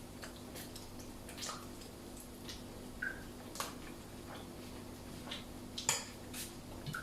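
Scattered light clicks and taps of cutlery and dishes while cheese is tasted, over a steady low hum.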